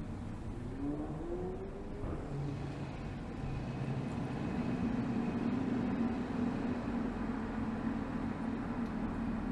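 BMW 320xd's 2.0-litre four-cylinder turbodiesel (B47D20), heard at the exhaust while driving in town. The engine note rises in pitch during the first two seconds as it pulls, drops back, then settles into a steady, slightly louder drone from about halfway on.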